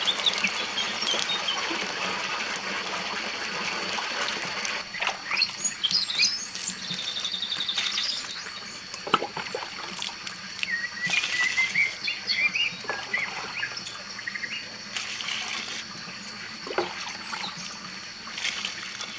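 Water running and splashing, with birds chirping now and then over it and a thin, steady high-pitched tone in the background.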